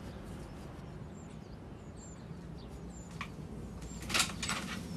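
Steady outdoor background hum with a few faint, high bird chirps. About four seconds in, a brief scuff of movement is heard.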